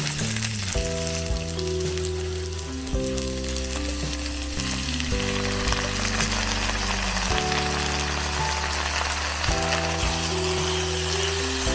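Food sizzling in a hot wok as vegetables and chicken stir-fry, the sizzle growing louder about four seconds in, with soft background music underneath.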